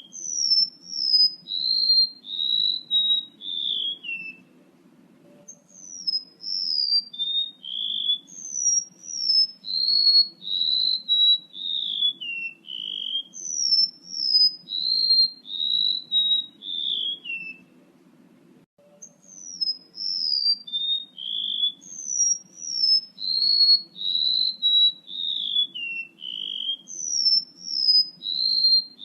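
Recorded song of a male rementuk laut bird, played as a lure call. It is a run of short, clear whistled notes, each sliding down in pitch, in phrases that step from high to lower over a few seconds. The phrases repeat after two short pauses, over a faint low hum.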